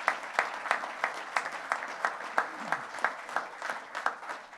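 Audience applauding, with a few nearby claps standing out sharply at about three a second over the general clapping, which eases off near the end.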